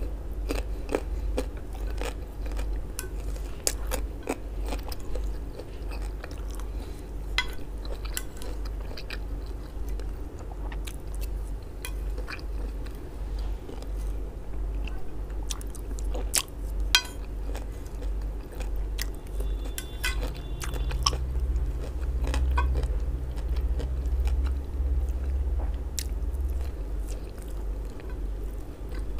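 Close-miked chewing and biting of grilled sausage, many wet clicks and small crunches in an irregular stream, with now and then a light clink of a plastic spoon or fingers on a ceramic plate. A steady low hum runs underneath.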